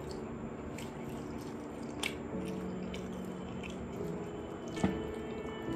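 Eating sounds: chewing with a few sharp wet mouth clicks, the loudest near the end, over soft background music of held notes.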